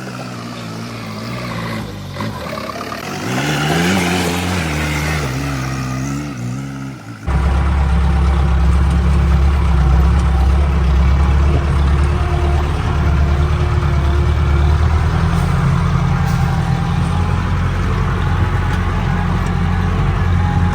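Mahindra 4x4 off-road jeep's engine revving, its pitch rising and falling over the first several seconds. About seven seconds in the sound changes suddenly to a louder, steady low engine drone under load that runs on.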